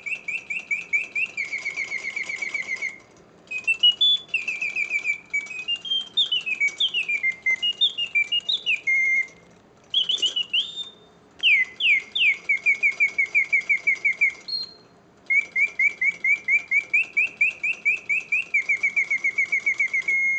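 Antique Karl Griesbaum singing bird cage automaton singing: its bellows-driven whistle gives fast trills of chirps and phrases of rising and falling whistled glides, broken by short pauses every few seconds. The song is strong and clear, the sign of a well-restored movement and bellows.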